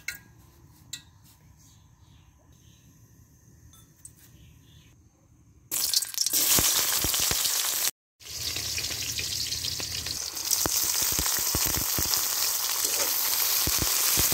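Green chillies, onion and garlic frying in hot oil in an aluminium wok: a loud sizzle starts suddenly about six seconds in, after faint insect chirping, with a metal spatula scraping the pan as they are stirred.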